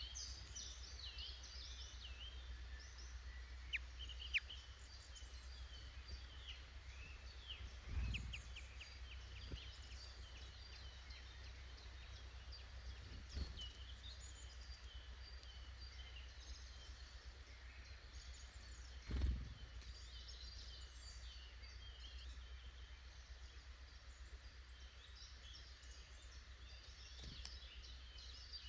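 Small woodland songbirds chirping and twittering almost continuously over a steady low rumble of outdoor background noise. Two soft low thumps stand out, about a third of the way in and again past the middle; the second is the loudest sound.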